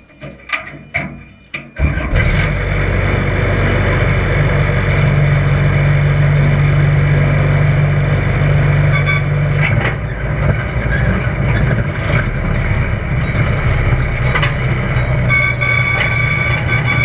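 A few sharp clicks, then about two seconds in the park's miniature train starts a loud, steady low engine rumble as it sets off.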